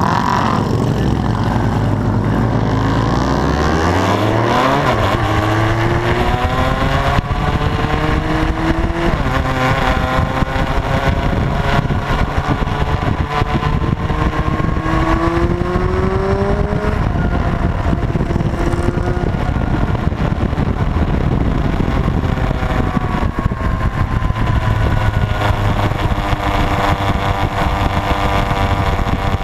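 Motorcycle engines running hard, their pitch climbing again and again as they rev and accelerate through the gears.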